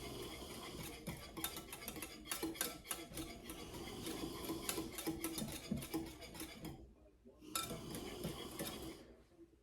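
A utensil stirring cream and condensed milk in a bowl, with quick repeated clinks and scraping against the bowl. It breaks off briefly about seven seconds in, resumes, and stops near the end.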